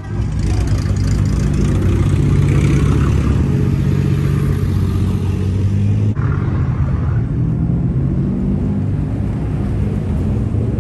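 Engines of classic cars running as they drive slowly past, a low steady engine sound that changes abruptly about six seconds in.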